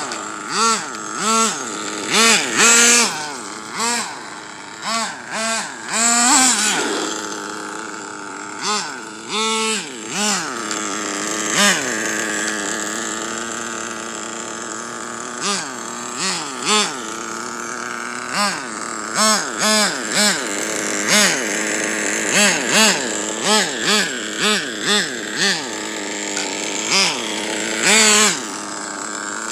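Hyper .21 nitro engine in an RC truck revving up and down in many short bursts of throttle, with a steadier stretch near the middle.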